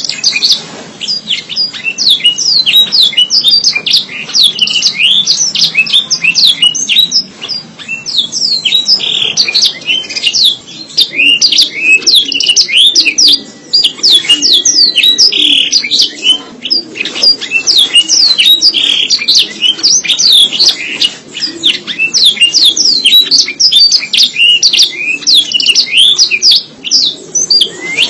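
Canary singing a continuous, fast song of high chirps, sweeping notes and trills that runs on without a break.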